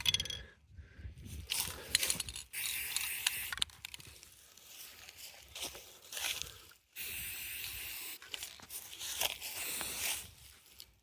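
Aerosol can of exhaust spray paint hissing in several short bursts of a second or two each as a muffler is sprayed, with small knocks and scrapes of handling between the bursts.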